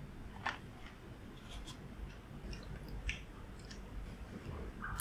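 Faint, scattered soft clicks and taps of food and utensils being handled during preparation of tomato and cheese skewers.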